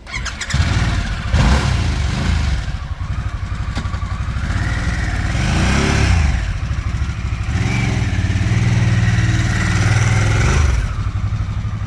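Motorcycle engine accelerating through the gears: its pitch climbs, drops at a shift about six seconds in, climbs again and holds steady, then eases off near the end.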